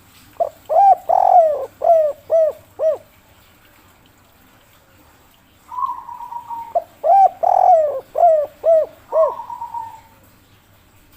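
Spotted dove (derkuku, tekukur) singing its cooing 'kuk 3' song in two phrases. Each phrase is about six rounded coos, the second and longest one fuller, with a short purring trill just before the second phrase and right after it.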